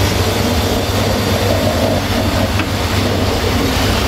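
A freight train passing close by: a CFR 060-DA diesel-electric locomotive goes by with a steady low diesel-engine rumble, and open freight wagons follow, rolling past on the rails.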